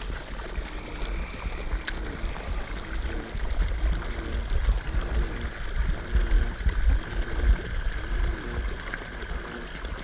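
Water running and splashing steadily into the pond from an inflow, with a low rumble under it. Through the middle comes a run of short, low rising-and-falling croaks, one about every 0.7 seconds, from a frog calling.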